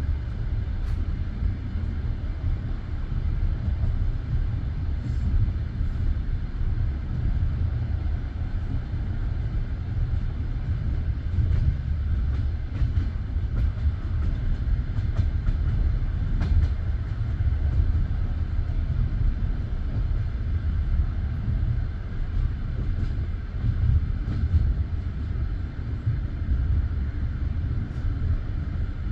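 Passenger train running along the track, heard from the carriage: a steady low rumble of wheels on rails with faint scattered clicks and knocks.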